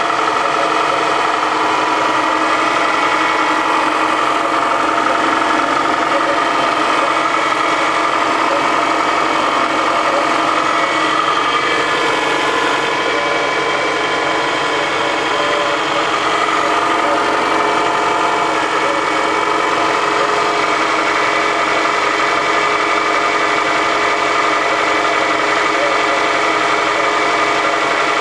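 Toyota Camry engine idling steadily on a cold start, with an extraneous noise in it that the owner notices.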